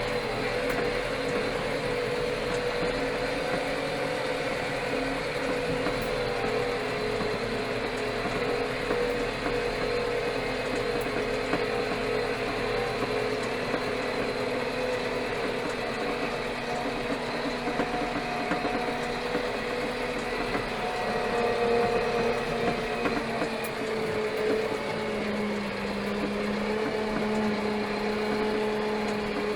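Four-cylinder Fiat Powertrain diesel engine of a Steyr 4075 Kompakt tractor running steadily, its pitch drifting slightly up and down.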